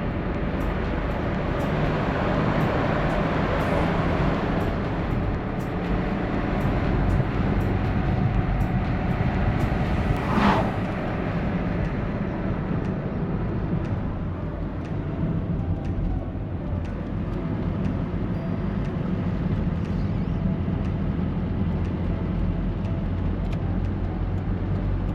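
Peugeot 306's 1.6-litre eight-valve petrol four-cylinder running steadily on the move, with tyre and road noise, heard from the driver's seat. There is one brief sharp sound about ten seconds in.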